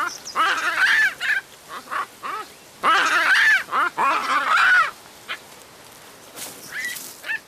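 Olive baboons calling: short, high, arching calls in two loud bouts, one around the first second and one from about three to five seconds in, with a few fainter calls near the end.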